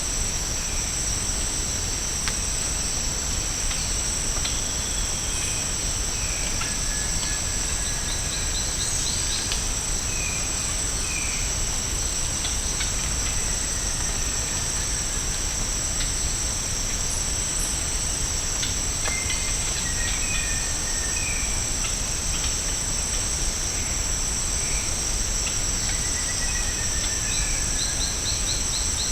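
Tropical rainforest ambience: a steady, high-pitched insect chorus with two unbroken tones, with birds calling over it. The birds give short chirps repeated every second or so, two gently falling trills, and a quick series of notes about a third of the way in and again near the end.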